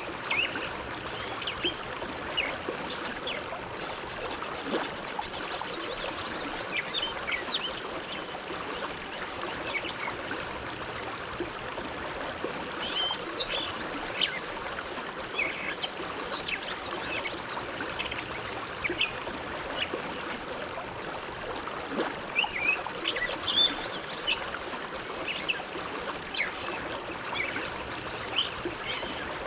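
The Bow River flowing with a steady rushing wash of water. Small birds chirp over it in short, scattered calls, more often in the middle and toward the end.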